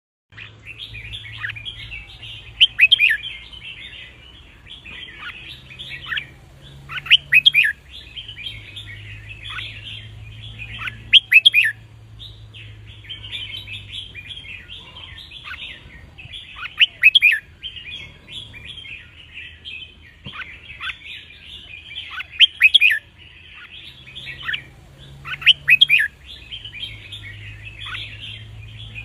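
Red-whiskered bulbul song: a continuous twittering chatter broken every few seconds by louder, clear whistled phrases, over a faint low hum.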